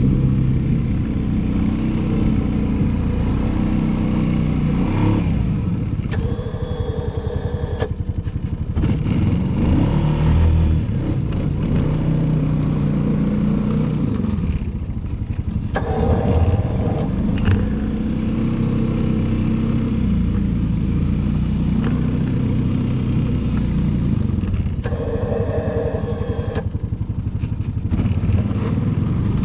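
Engine running steadily, its pitch dipping and recovering several times as the load changes.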